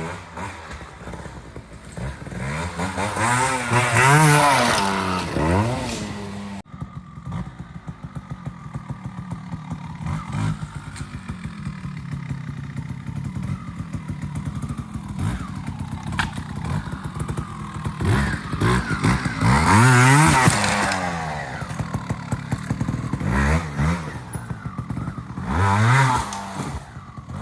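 Two-stroke engine of a TRS 125 trials motorcycle, idling with a fast even putter and revved up and down in three swells as the bike is ridden through trials sections.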